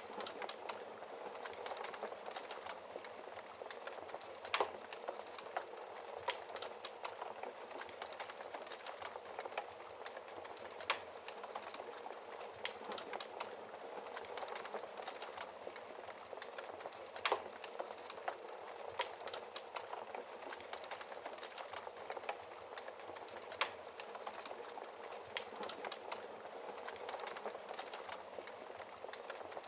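Wood fire crackling in a fireplace: a steady hiss of fine crackles, with a louder pop about every six seconds.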